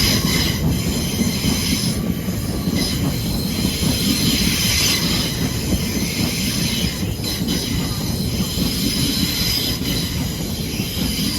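A train moving through the station, its wheels squealing on the rails in several steady high tones over a continuous low rumble.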